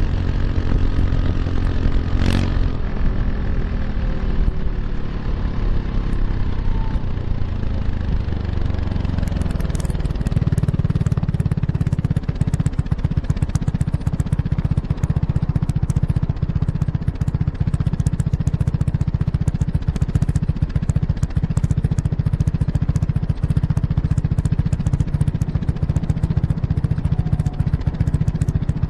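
Kymco X-Town scooter's single-cylinder engine through an Arrow Urban exhaust with its dB killer fitted, recorded right at the exhaust. The engine note falls over the first ten seconds or so as the scooter slows, then settles into a steady low running note with a crackly edge.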